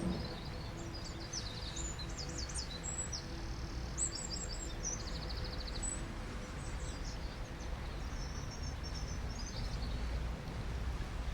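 Wild birds singing: many short high chirps and a quick, even trill, thinning out after about seven seconds, over a steady low background rush.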